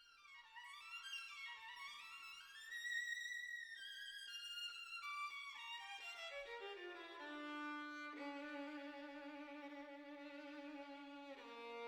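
Background music: a violin-like bowed-string melody that climbs and falls in the first half, then settles into lower, longer held notes.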